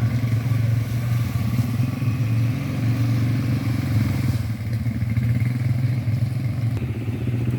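ATV quad bike engine running steadily.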